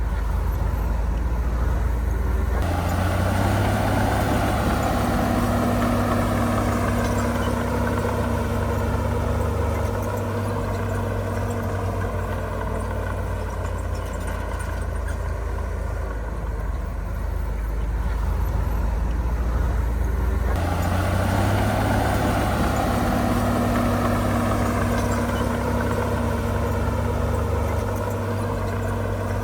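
Heavy diesel engine of an earthmoving machine working under load: it revs up sharply about 3 seconds in, runs hard with its pitch wavering for several seconds, eases back, then revs up again about 21 seconds in.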